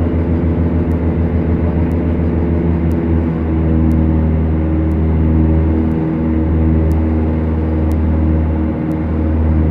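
Twin Lycoming four-cylinder engines and propellers of a Beechcraft Duchess running steadily, heard from the cabin. A fast pulsing beat in the first few seconds evens out into a smooth drone.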